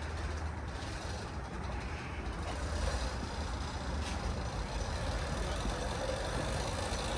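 Stretched mini bike's small engine running steadily, with a faint tone that creeps up slightly in pitch in the second half.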